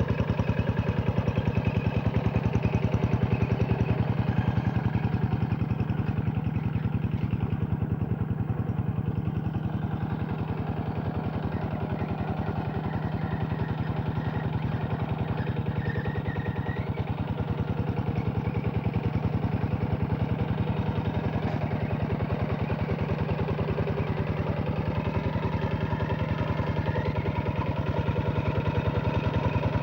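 Two-wheel hand tractor's single-cylinder diesel engine running steadily with an even, rapid firing beat while working a flooded paddy field; it eases a little through the middle and picks up again near the end.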